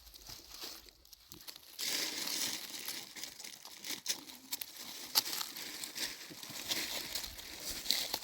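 Crinkling, rustling noise with scattered sharp clicks, starting about two seconds in.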